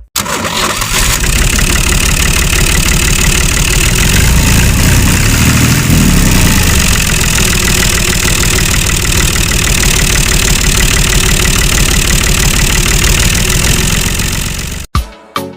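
Small engine of a handmade miniature MF 385 tractor running steadily and loudly, cutting off abruptly near the end.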